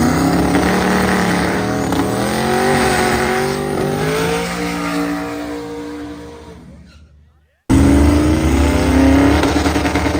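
Twin-turbo 1968 Dodge Dart drag car's engine on a pass down the strip, its pitch climbing in steps, then fading away to nothing. About three-quarters of the way in it cuts abruptly back to the engine, loud again with rising pitch.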